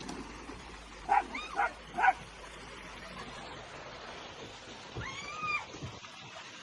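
A dog yipping three times in quick succession about a second in, then a longer whining call near the end.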